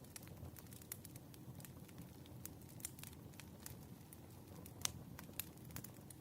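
Wood fire crackling: irregular, scattered snaps and pops over a low, even rustle of burning logs, with one louder pop about five seconds in.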